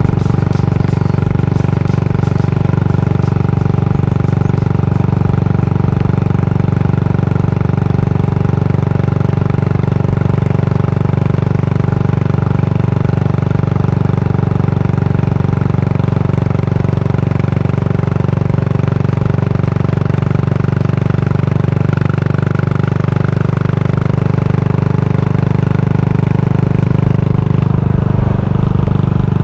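The exhaust of a Yamaha SR400's air-cooled single-cylinder engine, through a slip-on tapered cone muffler, running steadily with a deep, even thump and no revving.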